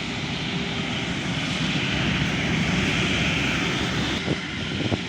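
Jet noise from an Airbus A380's four engines: a steady rush that builds a little to a peak about three seconds in and then eases.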